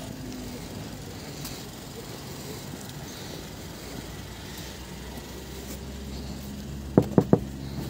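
A car engine idling close by, a steady low hum, with three quick knocks on the car's side window about seven seconds in.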